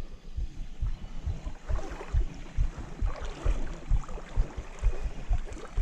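Creek water splashing and sloshing as an angler wades, with irregular low thumps several times a second.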